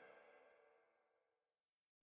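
Near silence: the last faint tail of background music fades out in the first half second.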